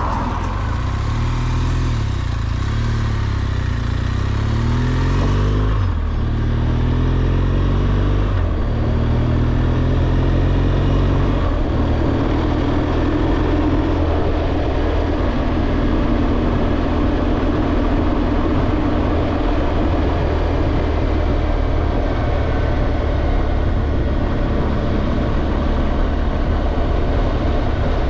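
BMW R1200GSA's boxer-twin engine accelerating through the gears: the pitch rises and drops back at shifts about six, eight and a half and eleven and a half seconds in, then holds steady at cruising speed.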